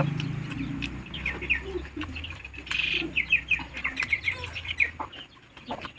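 Birds chirping: a quick run of short, high chirps from about one to four seconds in, over a low steady hum that fades out near the end.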